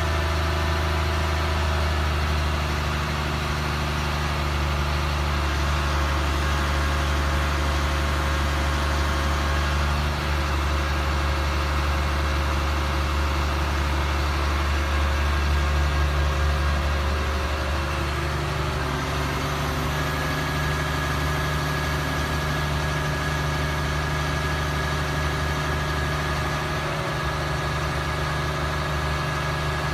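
A 2004 Ford F750 crane truck's engine idling steadily with a low hum. About two-thirds of the way through, a thin, steady high tone joins it.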